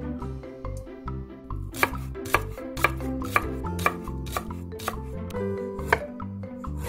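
Chef's knife slicing green onion and ginger on a wooden cutting board. The blade knocks on the board about twice a second, starting about two seconds in, over background music.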